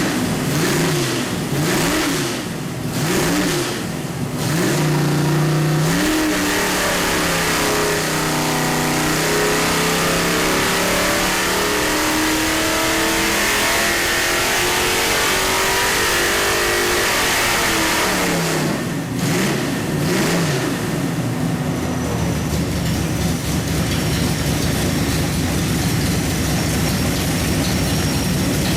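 Small-block Chevrolet 396 V8 running on an engine dynamometer: a few quick throttle blips, then a long pull with the revs climbing steadily for about ten seconds, after which it drops back quickly and settles into a steady idle.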